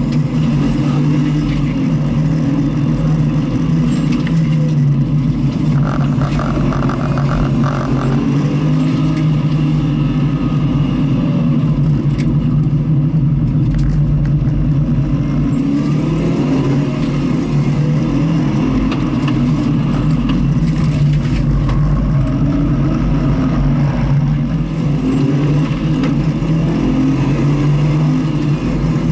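Car engine running continuously at circuit driving speed, a steady loud drone with no breaks.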